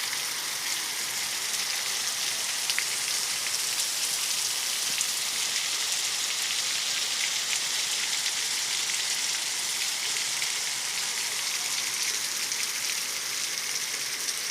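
Heavy rain falling steadily on hard surfaces, a dense even hiss with scattered drop ticks.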